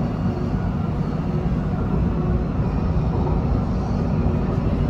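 Siemens Inspiro MRT train running along the line, heard from inside the car: a steady low rumble of wheels and running gear on the track.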